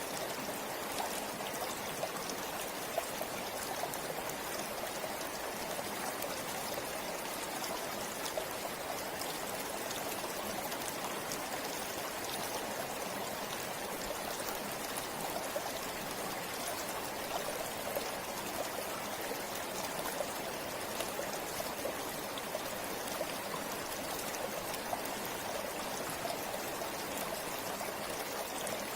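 A river or stream flowing over rocks: a steady rush of water with small splashes and trickles.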